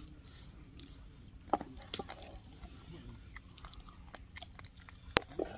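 A person chewing and biting into food, with scattered sharp clicks, two louder ones about a second and a half in and near the end.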